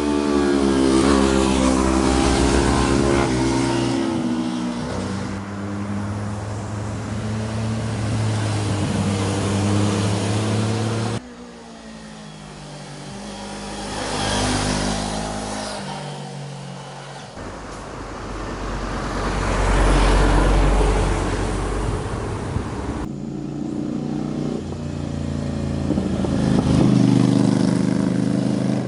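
Sport motorcycle engines passing on a mountain road, revving up and down through the gears, in three stretches with abrupt cuts between them about 11 and 23 seconds in.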